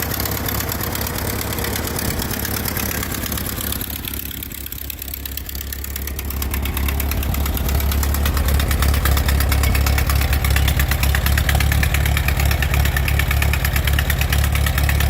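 Ford tractor engine running, easing off briefly about four seconds in, then running louder and harder from about seven seconds on.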